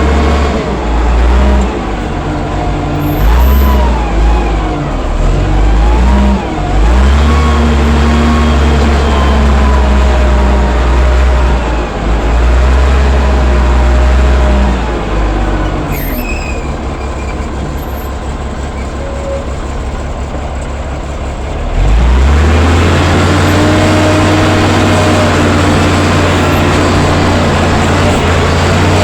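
Allis-Chalmers 940 wheel loader's diesel engine running hard, its pitch rising and falling as it is revved. About fifteen seconds in it settles to a lower, quieter run, then revs back up about twenty-two seconds in.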